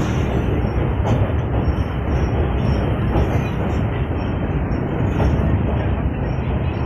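Passenger train running over a steel truss bridge: a steady, loud rumble of wheels on the rails, with a few faint clacks.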